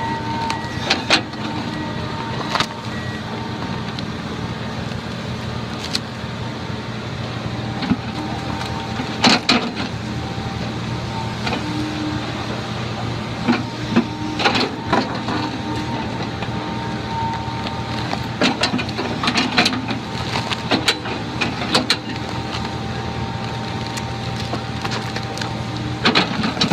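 A heavy machine's engine running steadily, with intermittent knocks and clatters, some in quick clusters.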